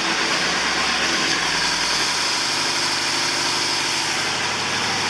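Perkins 4.236 four-cylinder marine diesel idling steadily. It is running again after three months submerged in salt water.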